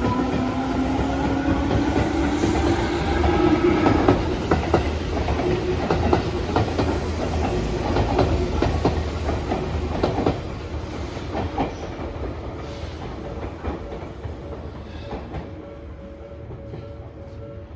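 Tobu Railway electric train running through, its motor whine rising in pitch over the first few seconds as it picks up speed, then the clickety-clack of wheels over rail joints. The sound fades away after about ten seconds.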